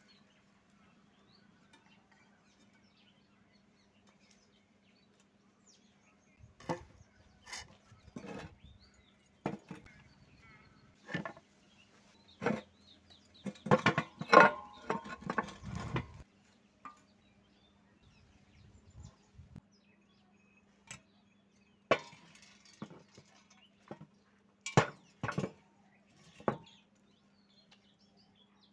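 Irregular sharp metallic clinks and knocks, as of metal parts being handled and struck, with a busier run about halfway through and another near the end, over a faint steady hum.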